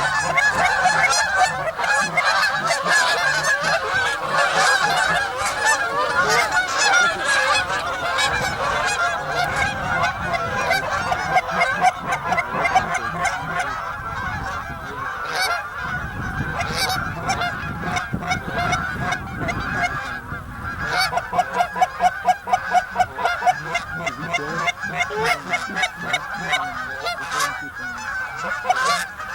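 A large flock of geese honking, many calls overlapping in a continuous clamour.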